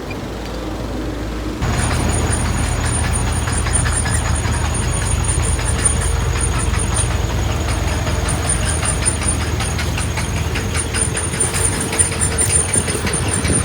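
Heavy diesel engine of construction machinery running steadily, jumping abruptly louder about two seconds in and then holding a deep, even drone.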